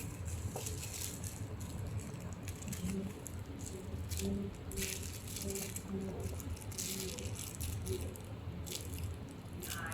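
A dog playing with a carrot-shaped chew toy, making irregular rattling and rustling noises.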